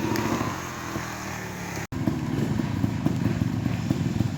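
Trials motorcycle engine running at low revs with rapid throttle pulses, cut by a brief dropout about two seconds in.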